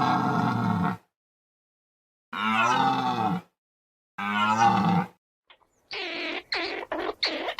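Deer stag roaring: three deep, drawn-out bellows of about a second each with gaps between them. From about six seconds in comes a different, rapid chattering of short, sharp notes.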